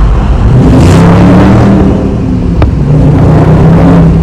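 2022 Dodge Charger Scat Pack's 6.4-litre 392 HEMI V8 exhaust under hard acceleration: the loud engine note climbs in pitch, dips and drops about halfway through, then climbs again.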